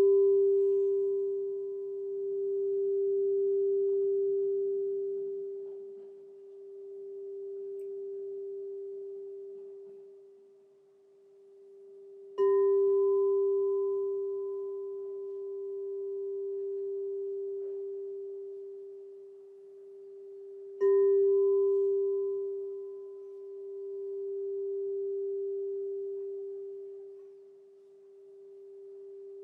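Crystal singing bowl struck and left to ring in one steady low tone, with a fainter higher overtone that dies away sooner; the ring slowly swells and fades in long waves. It is struck again about twelve seconds in and again about twenty-one seconds in.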